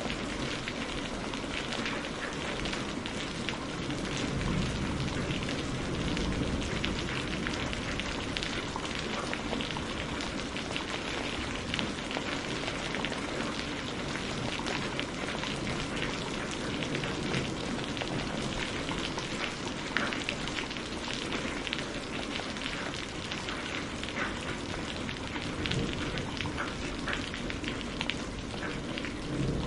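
Steady rain falling, mixed with a wood fire crackling, with many small sharp pops scattered throughout.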